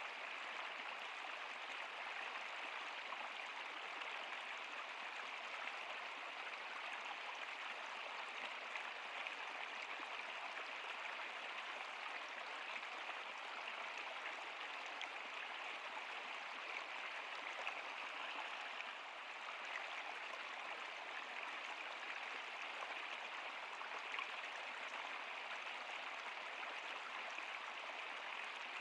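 Stream water flowing, a steady, even rushing without pauses.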